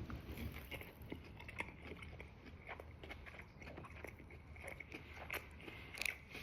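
Faint chewing and eating sounds: a scatter of soft irregular clicks and crunches as food is bitten and chewed.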